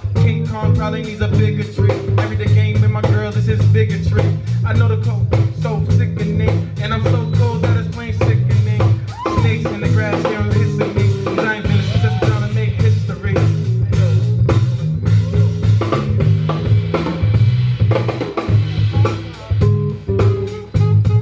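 Band music: a drum kit keeping a steady beat over a repeating bass line, with guitar and some singing.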